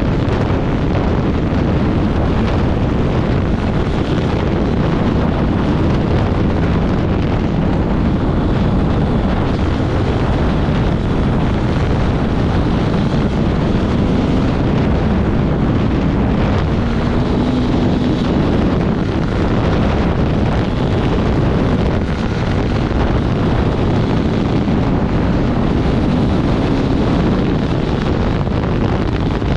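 Off-road motorcycle engine running steadily under way, heavily masked by wind buffeting on the microphone.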